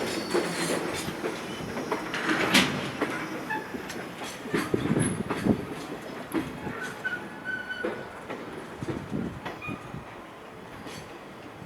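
Container freight wagons rolling slowly past as the train slows to a stop, with irregular wheel clacks and knocks and a few short, high wheel squeals.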